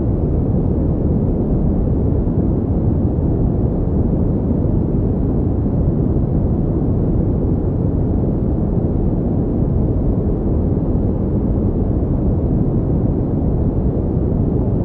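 Steady synthetic pink noise, a continuous deep, muffled rushing hiss with no changes, used as sleep and focus noise.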